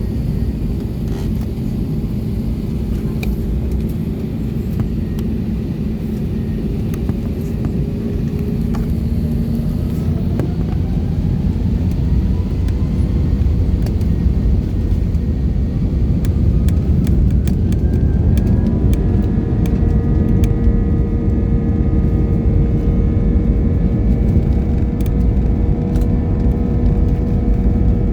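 Passenger jet heard from inside the cabin: a steady low rumble with an engine whine that rises in pitch over about ten seconds and then holds steady while the sound grows a little louder, as the engines spool up.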